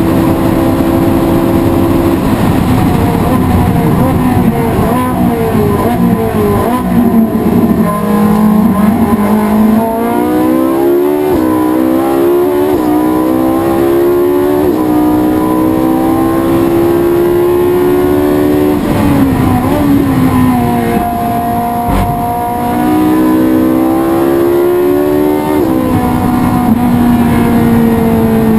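Race car engine at racing speed, revving through the gears: the pitch drops for a while under braking and downshifts, then climbs in steps with brief dips at each upshift. It falls again about two-thirds of the way through, then climbs once more.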